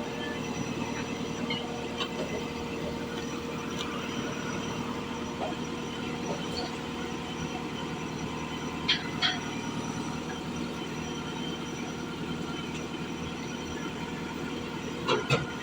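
Backhoe's diesel engine running steadily as it loads debris, with a couple of sharp knocks about nine seconds in and again near the end.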